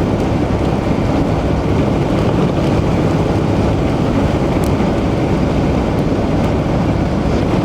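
Steady road and wind noise inside a car driving at highway speed, a constant low rumble with no change.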